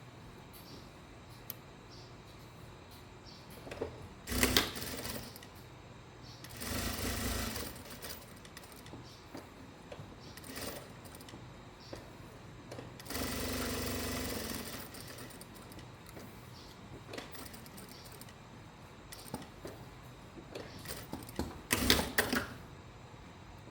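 Electric sewing machine stitching in two short runs of about a second and a half each, with sharp clatters of handling, the loudest about four seconds in and near the end, and small clicks in between.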